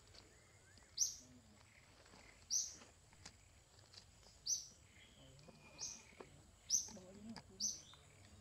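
A bird chirping repeatedly: about six short, high chirps, irregularly spaced a second or so apart.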